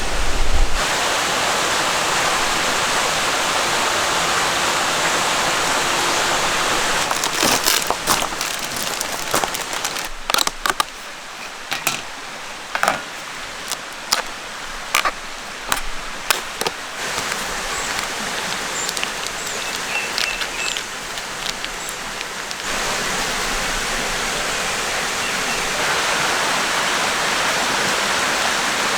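Valley stream flowing steadily as a constant rushing hiss. Partway through the rush grows quieter, and a run of sharp clicks and knocks comes through for several seconds, followed by a few short high chirps, before the stronger stream sound returns near the end.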